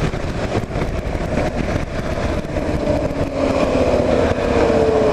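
Kawasaki KLR 650's single-cylinder engine running under way, with wind noise over it; over the second half the engine note falls steadily as the bike slows.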